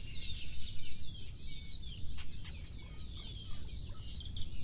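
Several small birds chirping and trilling in quick, overlapping calls, over a steady low rumble.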